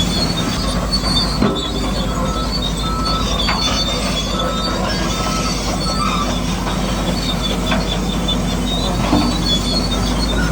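Heavy machinery running steadily, with short high-pitched metallic squeals coming and going over the engine, typical of a bulldozer's steel crawler tracks.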